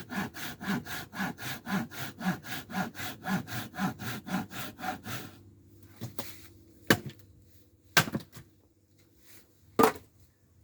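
Hand saw cutting scrap wood in quick, even back-and-forth strokes. The sawing stops about halfway through, followed by three sharp knocks.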